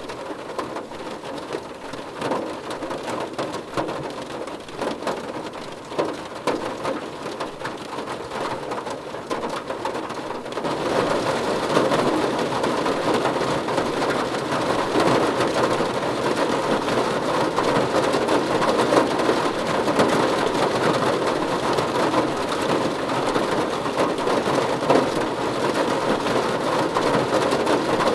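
Heavy rain falling steadily, a dense patter of individual drops hitting a surface, growing heavier and louder about ten seconds in.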